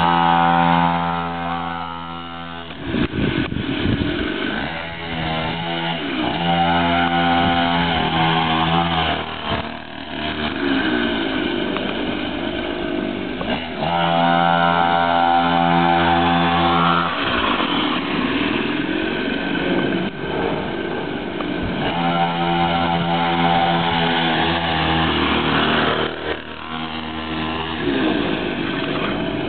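Mini dirt bike engine running hard under riding, held at steady high revs for a few seconds at a time, with the revs rising and falling in between.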